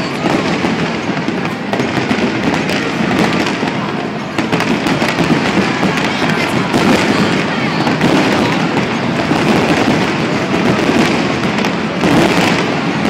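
Aerial fireworks display bursting overhead in a rapid, unbroken barrage of bangs and crackles.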